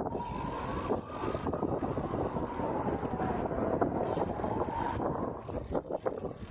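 Wind rushing over the microphone of a cyclist riding a road bike, with steady rolling noise beneath and a faint tone that slowly rises and then falls.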